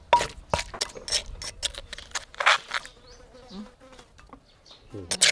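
A knife chopping on a cutting board, about two strokes a second in the first two seconds, then an insect buzzing close by.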